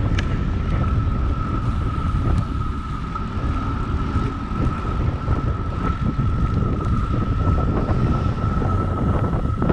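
Wind buffeting the microphone of a bicycle-mounted camera riding through city traffic, a dense low rumble. A steady, thin, high-pitched tone sounds over it and stops near the end.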